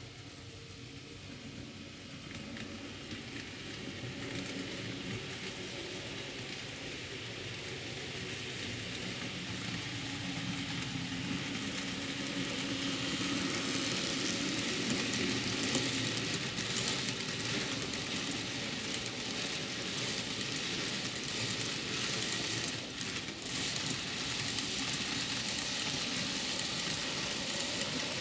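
N gauge model train running along the layout track, a steady rolling rattle of small wheels on rail that grows louder as the train comes closer, with a brief dip about two-thirds through.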